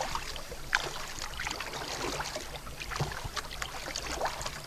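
Kayak paddle strokes: the blades dipping and splashing in the water with irregular drips and trickles, over a faint low steady rumble.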